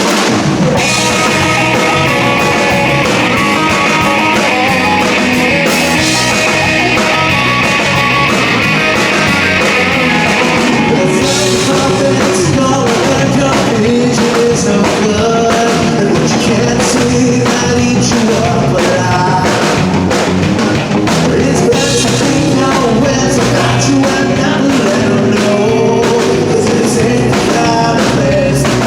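Rock band playing a song, with drum kit and guitar.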